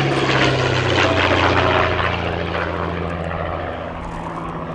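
The twin de Havilland Gipsy Six engines of a DH.88 Comet racer droning steadily as it flies past, fading away over the last couple of seconds.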